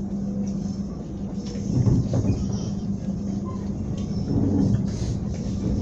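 Passenger train running along the track, heard from inside the carriage: a steady rumble of wheels on the rails with a low hum, growing louder about two seconds in.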